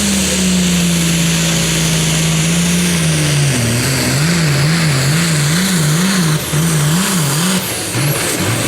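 International Harvester 3688 Super Farm pulling tractor's diesel engine running hard under load. Its pitch holds steady, then from about three and a half seconds in it swings up and down in an even rhythm, a little under twice a second, as the tractor takes a ride down the track with big problems somewhere.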